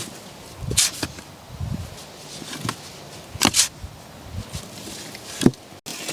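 Sand being hauled and worked by hand: a few scattered scrapes and thuds, the loudest a pair of scrapes about halfway through.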